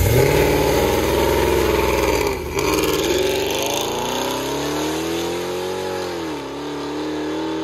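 Supercharged Dodge Challenger engine revving. It climbs at the start, drops briefly about two and a half seconds in, then holds at a steady, wavering rev with another short dip near the end.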